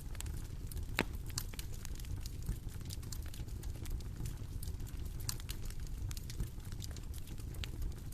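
Bonfire crackling: irregular snaps and pops over a low steady rumble, with one sharper crack about a second in.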